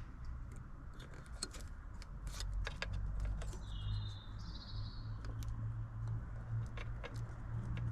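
Scattered light clicks and rattles of hand tools and plastic trim clips being worked on a car, over a steady low hum, with a brief high chirp about four seconds in.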